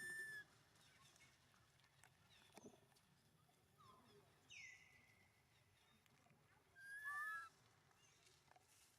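Baby monkey calling with thin, high-pitched cries: one at the start, a short cry and a falling squeal around four to five seconds in, and a louder two-toned cry about seven seconds in.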